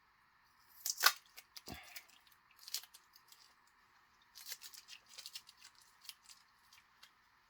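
Hands working open shipping packaging: plastic and paper crackling with sharp clicks. The loudest clicks come about a second in, followed by a run of smaller crackles and clicks around the middle.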